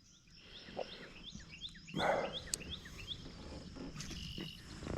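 A bird singing a quick run of short, repeated chirps, then a few more spaced ones. There is a brief louder rush of noise about two seconds in.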